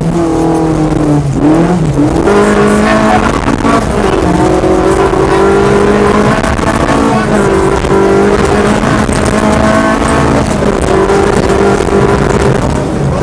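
Peugeot 205 kit car rally engine heard from inside the cockpit, revving hard, its pitch climbing and then dropping several times as the driver shifts and lifts, over a steady rumble of tyres on gravel.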